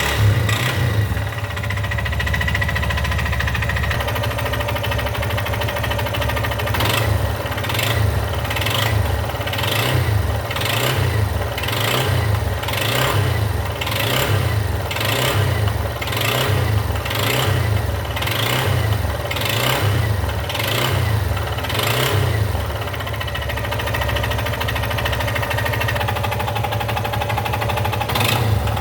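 Yamaha XTZ Lander 250's single-cylinder engine running, with a rhythmic noise pulsing about one and a half times a second from about seven seconds in until near the end. This is the engine noise the owner is reporting on a bike with 34,000 km.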